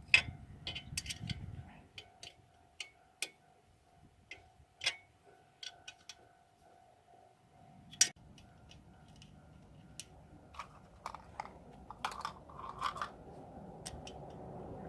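Hand tools and metal engine parts being handled, making scattered sharp clicks and taps. The loudest knock comes about eight seconds in, and a quicker run of clicks follows near the end.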